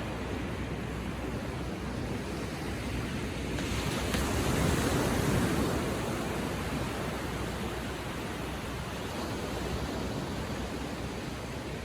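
Atlantic surf lapping gently on the beach: a steady wash, with one wave swelling louder about four seconds in and ebbing back.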